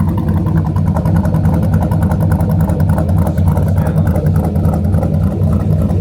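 Car engine idling close by, a steady low exhaust rumble.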